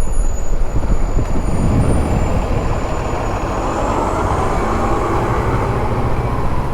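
Slow, heavy traffic heard from a motorcycle: a steady low rumble on the microphone with a bus or truck engine running close by, growing louder about three seconds in.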